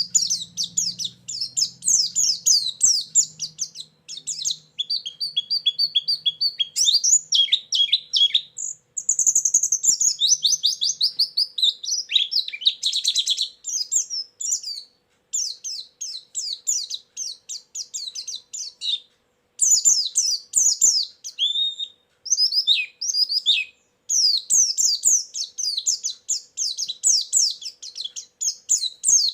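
Fast, high-pitched chirping and twittering song of a white-eye (pleci), played as a lure and fill-in training recording: rapid runs of trilled notes broken by short pauses.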